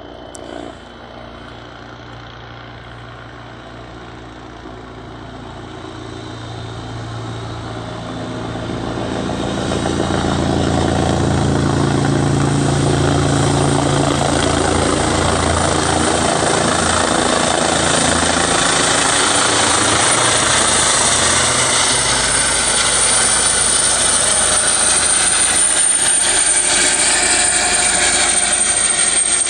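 Airbus H135 twin-turbine helicopter flying by: rotor and engine noise growing louder over about the first ten seconds as it comes in, then staying loud. A high, steady turbine whine grows stronger near the end.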